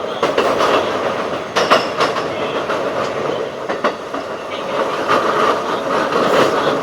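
Keikyu 1500 series field-chopper electric train running at speed, heard from on board: a steady wheel-and-rail rumble with a few sharp clacks over rail joints, the clearest about two seconds in and near four seconds.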